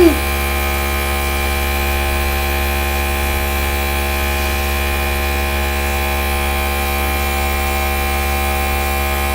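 Small electric air gun running steadily, a continuous motor hum with a hiss of blown air, as it pushes alcohol ink across the paper.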